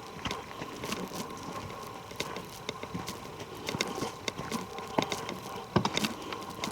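Footsteps on the forest floor: irregular crackles and snaps of twigs and litter underfoot, several a second, with a few louder snaps near the end.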